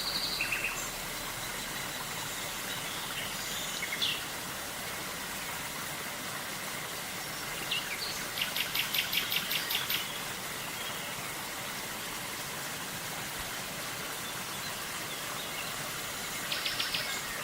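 A river's steady rush of water with wild birds calling over it: short whistled calls near the start and about four seconds in, a fast run of about ten repeated notes around eight seconds in, and a shorter run near the end.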